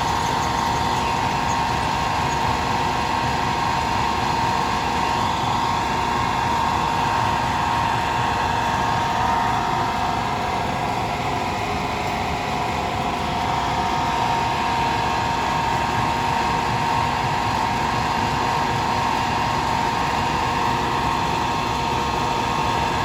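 Heavy mining machinery running steadily: a dense, even mechanical noise with a constant high whine and no breaks or changes.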